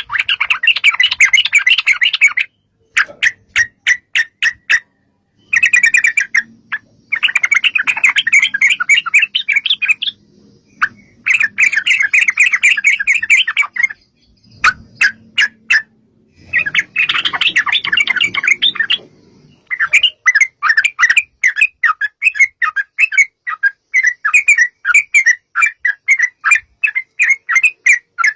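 Yellow-vented bulbul (trucukan) singing: bursts of fast, bubbling chatter broken by short pauses, settling about two-thirds of the way in into a run of separate sharp notes at about three a second.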